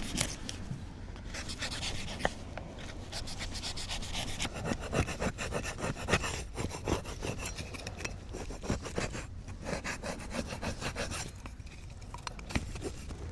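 Quick rasping strokes of something scraping or rubbing, in runs broken by a few short pauses.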